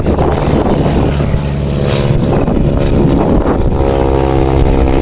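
Propeller biplane in flight, its piston engine and propeller droning loudly over a rough wash of noise; about three and a half seconds in the engine note settles into a steady, clear drone.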